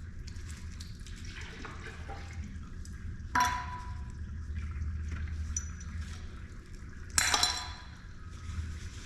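Metal parts clanking as they are handled during an engine oil and filter service: lighter clinks, then two sharp ringing clanks about three and a half and seven seconds in, over a steady low hum.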